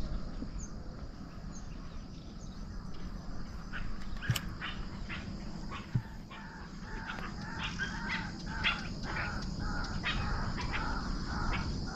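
A bird calling in a quick repeated series of short notes from about three seconds in, over a steady high insect drone, with two brief soft knocks about four and six seconds in.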